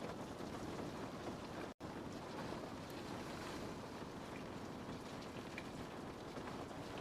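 Rain falling steadily on a window pane, an even patter with a few faint drip ticks. The sound cuts out for an instant about two seconds in.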